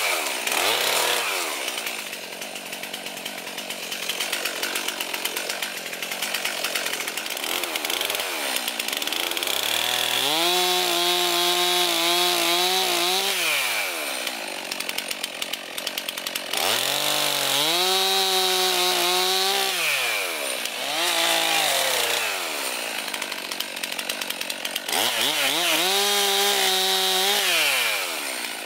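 Stihl MS 362 C two-stroke chainsaw cutting wood: it runs low between cuts and is throttled up to full speed three times, each held for about three seconds before dropping back.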